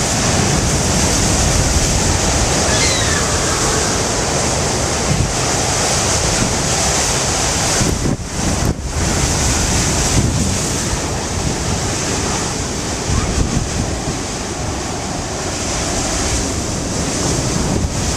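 Heavy storm surf crashing and churning against the shore in a continuous roar, with strong wind buffeting the microphone. The roar dips briefly twice about halfway through.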